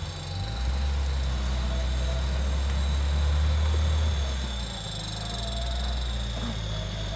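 Off-road vehicle engine running steadily under load during a mud recovery, easing off about four and a half seconds in.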